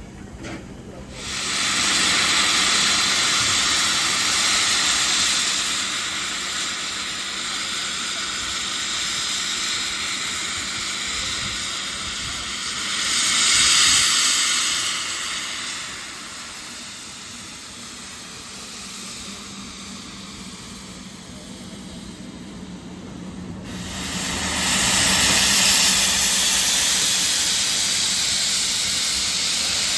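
Steam locomotive letting off steam: a loud hiss that starts abruptly about a second in, swells again around the middle, eases off for a while, then bursts back on near the end.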